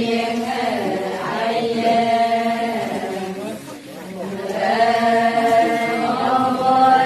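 Adi ponung song: voices chanting in long held notes, two phrases with a short break a little past the middle.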